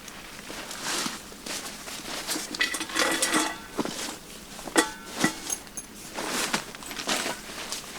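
Camping gear being handled and set down: irregular rustling and knocks, with a few short metallic clinks.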